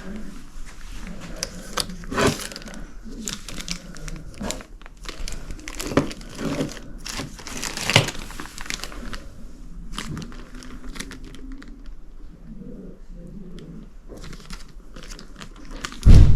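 Crinkling and rustling of items being handled, with scattered light clicks and knocks. One loud thump comes right at the end.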